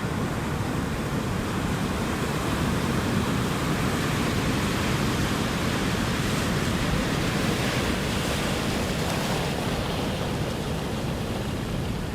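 Ocean surf washing steadily, swelling slightly louder for a few seconds mid-way as a wave breaks.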